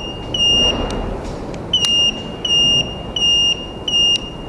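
ATV turn-signal buzzer beeping along with the flashing indicator: a high, steady beep about every 0.7 s, five or six in all. There is a brief pause with a couple of clicks about a second in.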